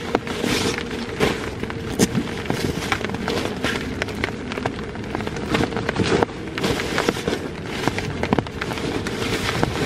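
Rain pattering and crackling on a plastic groundsheet, mixed with the rustle and crinkle of nylon tent fabric being pulled from its bag and unrolled. The crackles come thick and irregular.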